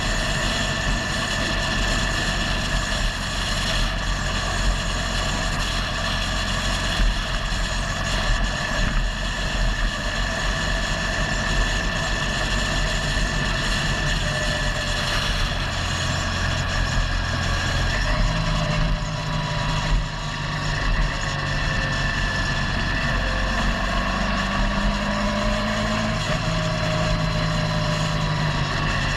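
Motorcycle engine running steadily on the road, with wind rushing past. The engine note steps to a new pitch about two-thirds of the way through and shifts again near the end.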